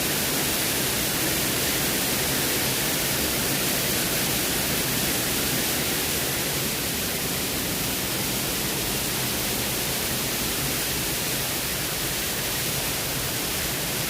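Waterfall cascades rushing: a steady, unbroken hiss of falling water.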